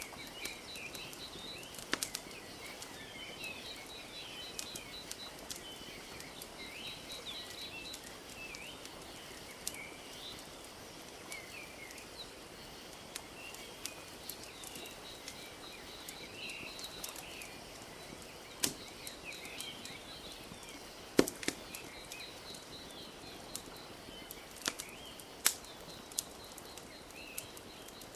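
Wood fire crackling with scattered sharp pops, the loudest about three-quarters of the way through, over small birds chirping and a soft steady wash of lake water lapping.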